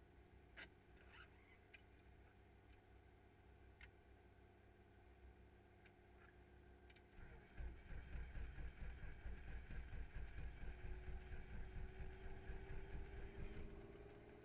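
Faint scattered clicks, then from about halfway a muffled helicopter engine and rotor come up as a low pulsing rumble, with a faint whine slowly rising in pitch as it spins up.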